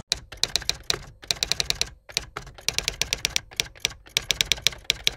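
Typewriter key strikes in quick runs with short pauses between them, a typing sound effect laid under title text being typed out letter by letter.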